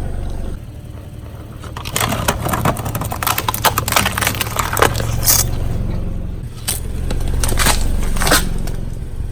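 A car tyre rolling over brittle objects and crushing them: a dense run of crackles and snaps for a few seconds, then a few scattered cracks. The car's engine runs low and steady underneath.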